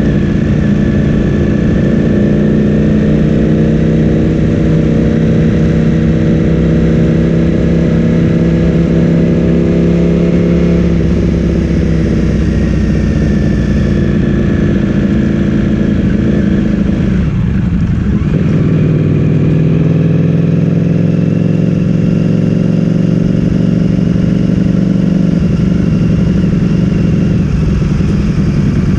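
Ducati Streetfighter V4 S's V4 engine through an Akrapovic full-system exhaust, running under way at a fairly steady pitch with small rises. A little past halfway it drops off briefly, as at a throttle close or gear change, then picks up again.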